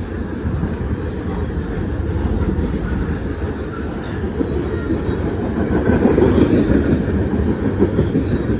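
Train rolling past: a steady low rumble that swells a little about six seconds in.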